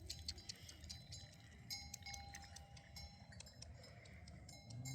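Small livestock bells on a flock of sheep and goats clinking and ringing faintly and irregularly, many light strikes with a few lingering tones.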